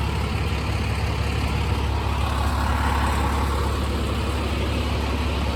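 Fire engine's diesel engine idling, a steady low rumble with street noise over it.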